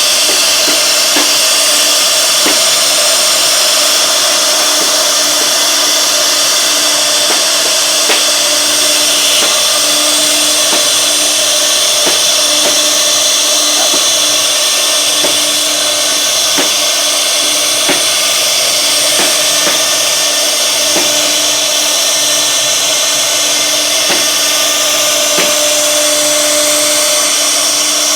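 CNC router spindle running steadily while cutting wood, a constant hum under a bright high-pitched noise, with scattered light ticks.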